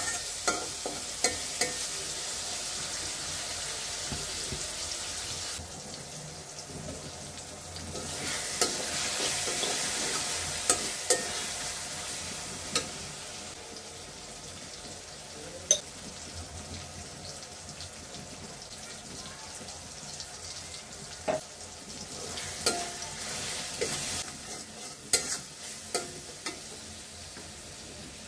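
Tomatoes and onions sizzling in hot oil in a metal karahi, stirred with a metal spatula that scrapes and clicks against the pan now and then.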